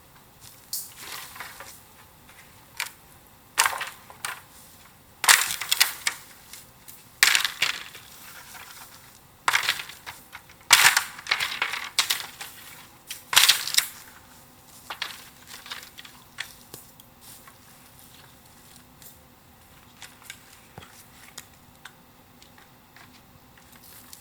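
Dry bamboo and wood cracking: a run of sharp snaps and crackles, loudest and bunched together in the first half, then thinning to fainter crackles.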